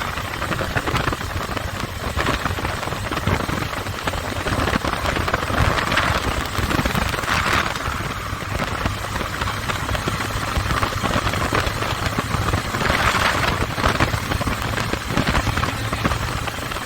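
Motorcycle engine running while riding, its rapid firing rumble under steady wind noise rushing over the microphone, which swells a few times.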